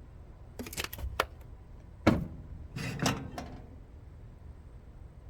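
Kitchen items being handled at the stove: a few quick clicks just under a second in, a sharp knock about two seconds in and a short clatter a second later.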